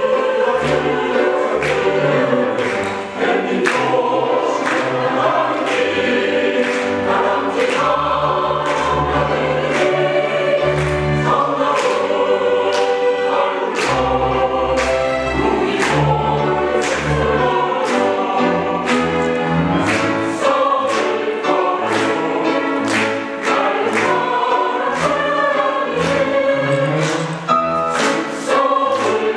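A choir singing a choral song over an accompaniment with a steady pulse of struck notes and low bass notes.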